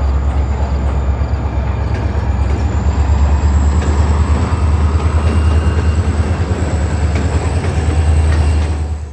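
Freight train of diesel-electric locomotives passing close under power: a heavy low rumble with a faint high whine above it. It cuts off suddenly near the end.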